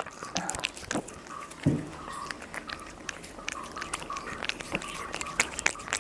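A Ragdoll cat eating from a dish: a run of quick, irregular chewing and smacking clicks.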